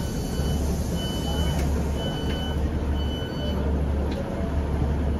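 Class 150 diesel multiple unit standing at a platform, its underfloor diesel engine idling with a low steady hum. A high electronic beep repeats about once a second over it, most likely the train's door warning alarm.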